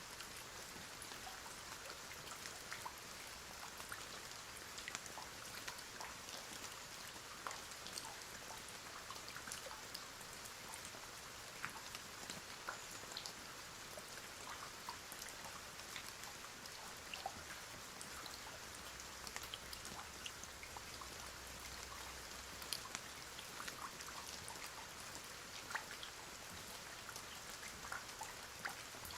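Steady rain: an even hiss of rainfall with scattered drops ticking.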